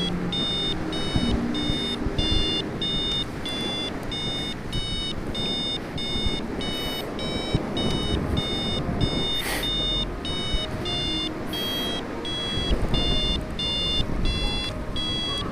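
Flight variometer beeping steadily in rapid short tones, about two and a half a second, over wind rush: the sign of climbing in a thermal.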